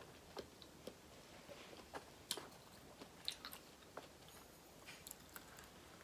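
Close-up eating sounds of a person chewing seafood boil food: faint wet mouth clicks and small crackles at irregular intervals, very quiet.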